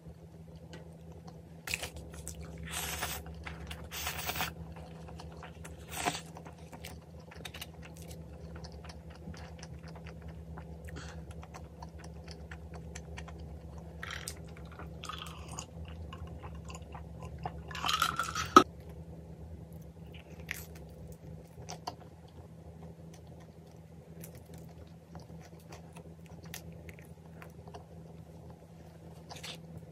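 Close-miked chewing and crunching of pizza and pizza crust in irregular spells, with a sharp click a little past halfway.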